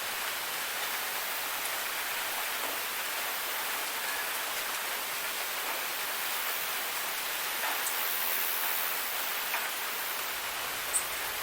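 Waterfall: a steady, even rush of falling water, with a few short ticks in the second half.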